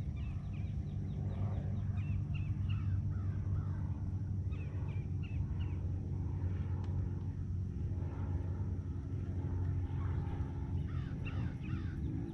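Birds calling in short runs of quick chirps, over a steady low hum.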